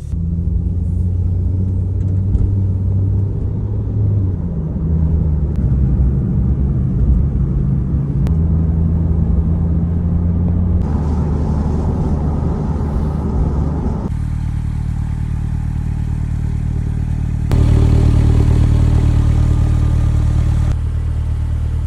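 Porsche 911 Turbo (997.1) twin-turbo 3.6-litre flat-six running, its pitch stepping up and down through the first half, then steadier, with a louder stretch of a few seconds near the end.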